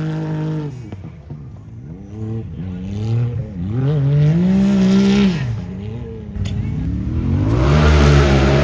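Race UTV engine revving up and down again and again as it blips the throttle, then held loud at high revs near the end.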